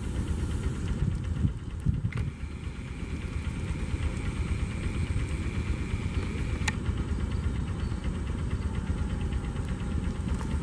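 Electric Comprehensive Inspection Train of the Jakarta–Bandung high-speed railway rolling past close by: a steady low rumble from its wheels and bogies on the rails. A thin steady whine sounds for a few seconds in the middle, with a sharp click as it starts and another as it ends.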